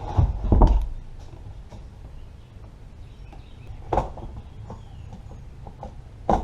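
Hand tool and the chainsaw's plastic housing knocking and clattering as the top-cover bolt of a Stihl 025 chainsaw is worked loose: a few sharp knocks about half a second in, a single knock about four seconds in and another near the end.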